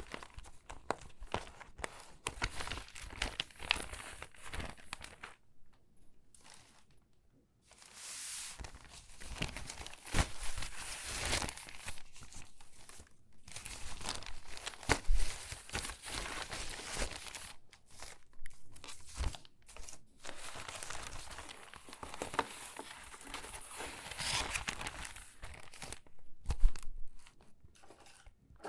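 Stiff, water-damaged magazine pages being handled and sorted, crinkling and rustling in bursts, with sharp crackles and a brief lull about six seconds in.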